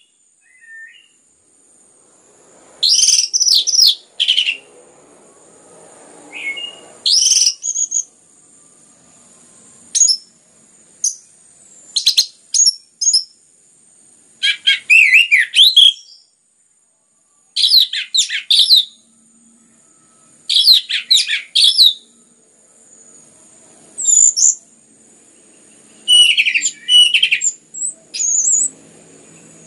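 Orange-headed thrush singing: loud, rapid warbled phrases repeated every one to three seconds, with short pauses between them.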